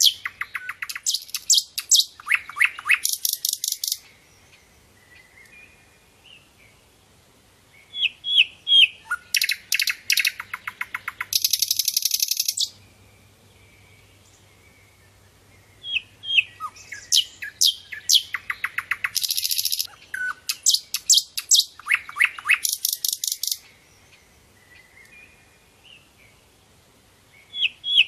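Sikatan londo flycatcher singing in bouts of several seconds separated by short pauses: quick high chips and fast trills, each bout ending in a dense buzzy rattle.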